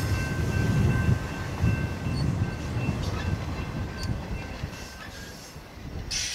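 Tail end of a BNSF intermodal freight train rolling past: wheels rumbling and clacking on the rails with a thin, steady wheel squeal, fading away over the last few seconds as the final car clears.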